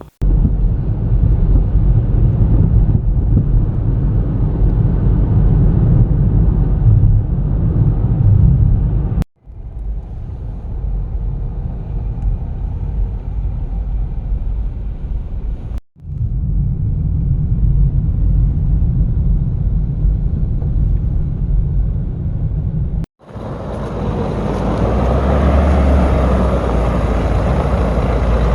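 Vehicle towing a loaded trailer on the road: a steady low engine and road rumble that breaks off abruptly three times. The last stretch has more mid-range noise and a high hiss.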